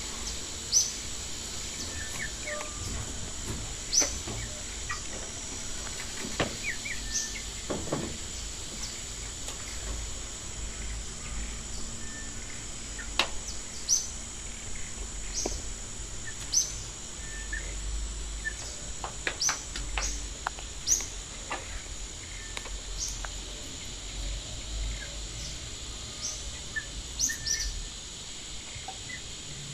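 Birds chirping: short, high chirps repeating every second or two, over a steady high-pitched buzz in the background.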